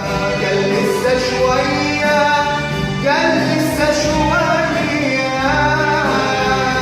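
Male voice singing a drawn-out, ornamented melodic line in Arabic pop style over instrumental accompaniment.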